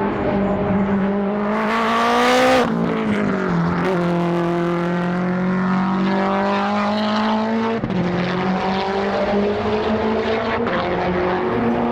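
Time attack race car accelerating hard through the gears: the engine note climbs, then drops at an upshift about two and a half seconds in, just after a short hiss, climbs again and drops at a second upshift near eight seconds in.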